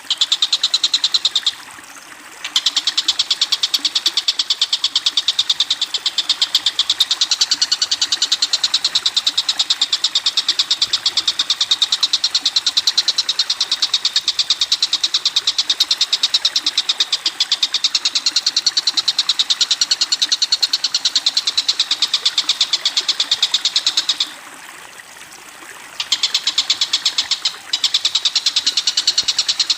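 A songbird's fast, even rattling trill of high notes, held for many seconds at a time, with short breaks about two seconds in and near the end.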